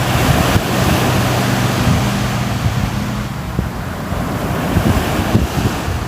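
Sea waves washing in: a surge of surf hiss swells at the start and eases off about three seconds in, over a low rumble and a faint steady low hum.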